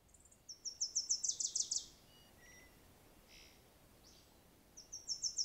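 A songbird singing: a quick run of about a dozen high notes that grows louder over about a second and a half, repeated near the end, with a few faint short calls between.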